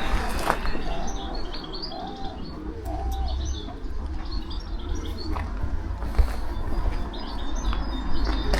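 Many small birds chirping over one another, with a low cooing call repeated about once a second in the first few seconds.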